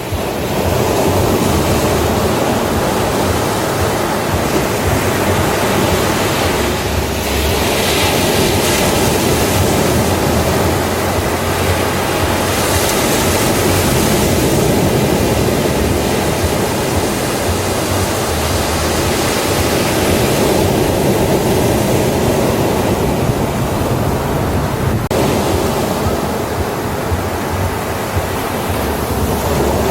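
Ocean waves breaking on a beach: a continuous wash of surf that swells and eases as each wave comes in.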